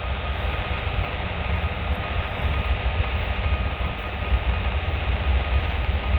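Diesel freight train running past on the main line: a steady, continuous rumble, heaviest in the low end.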